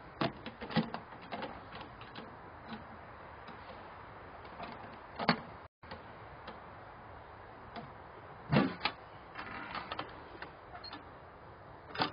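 Scattered clicks and knocks of metal being handled, with two louder knocks about five seconds and eight and a half seconds in.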